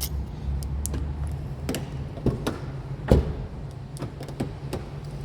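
A series of knocks and clicks from things being handled inside a car, the loudest a thump about three seconds in, over a steady low hum.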